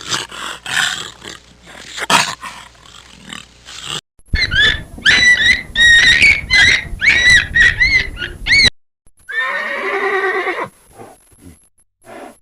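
A succession of different animal calls. It opens with a rough, noisy stretch, then a run of quick, high, rising-and-falling calls for about four seconds, then a shorter wavering call near the end.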